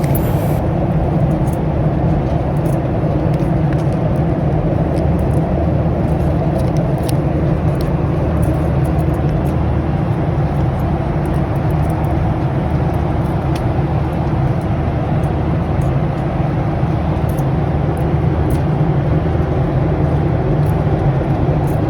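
Steady, loud cabin noise of an airliner in flight: a low engine and air drone with a few faint light ticks.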